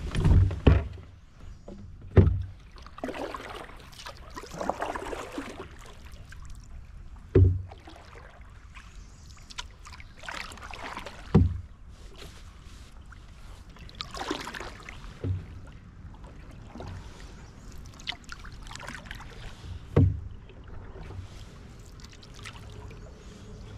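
Canoe being paddled: the paddle blade splashes and swishes through the water every few seconds, with a sharp hollow knock against the canoe several times. There is a cluster of knocks in the first couple of seconds as the canoe is pushed off.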